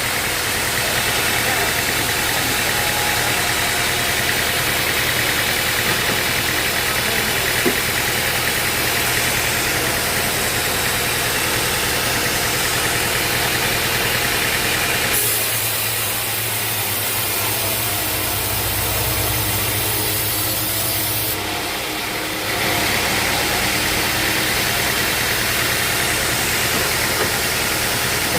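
A sawmill's engine runs steadily at a constant speed. About halfway through the sound changes character, and near the end it dips briefly before picking up again.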